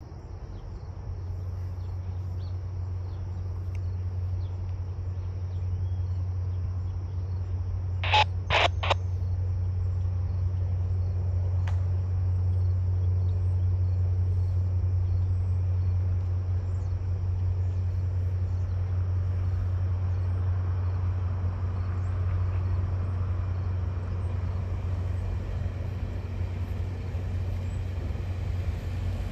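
Low steady drone of the diesel locomotives hauling VIA Rail's stainless-steel passenger train as it approaches, growing slowly louder, with a soft rush of wheels building in the second half as the cars roll by. Crickets buzz throughout, and three sharp knocks come close together about eight seconds in.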